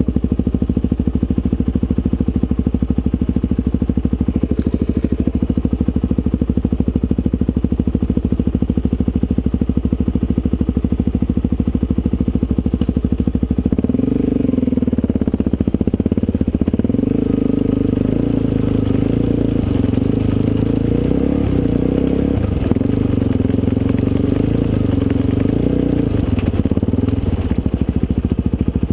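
Supermoto motorcycle engine running steadily at low revs. From about halfway its revs rise and fall as the bike is ridden, then settle again near the end.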